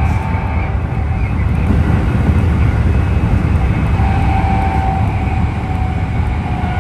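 Mitsubishi traction motors of Keikyu car DeHa 1097 running under the floor, heard inside the car: a heavy low rumble with a steady whine over it. The uploader takes the deep underfloor bass and growl as an abnormal motor noise, perhaps from a loud Mitsubishi motor or motor wear.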